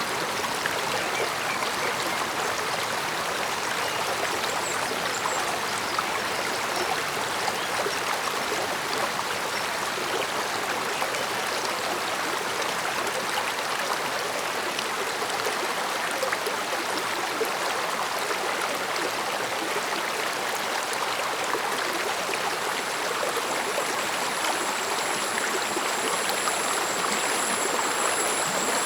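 Stream water flowing and babbling steadily over rocks, an even rushing murmur. A faint, thin, high steady tone joins in near the end.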